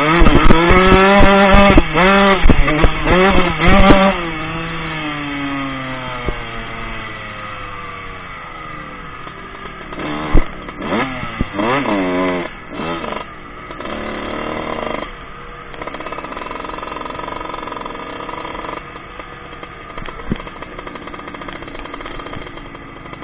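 Four-stroke motocross bike revving hard up through the gears close by for about the first four seconds, then fading away. More revving bursts come from the track around the middle, followed by steadier, more distant engine sound.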